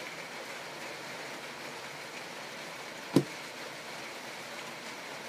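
A single short, sharp knock about three seconds in, over a steady background hiss.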